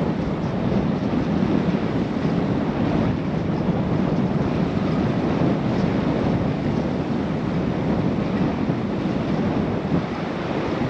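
Steady wind rushing over the microphone of a GoPro action camera while riding a bicycle.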